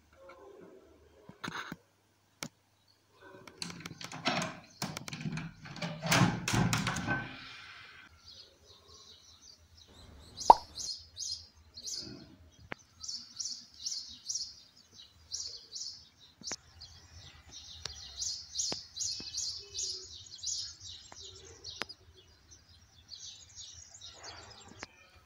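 Birds chirping, high short calls repeating about twice a second, with a sharp pop about ten seconds in. Before the chirping starts there is a louder stretch of rustling noise.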